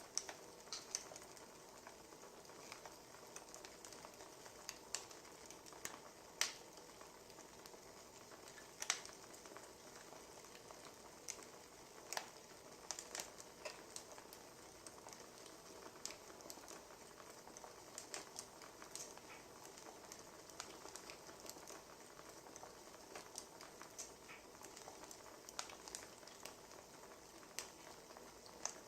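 Wood fire crackling faintly: irregular small pops and snaps over a low steady hiss.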